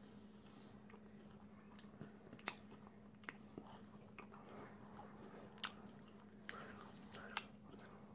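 Faint close-up chewing of a hazelnut macaron, with about five short sharp mouth clicks spread through it, over a steady low hum.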